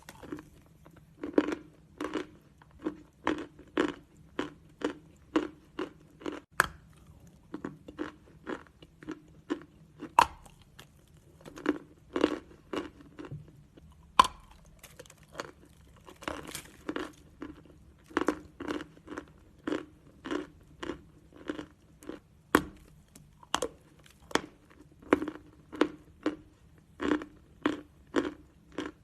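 Natural chalk being chewed in steady crunches, about two a second. A few sharper snaps come as pieces are bitten off.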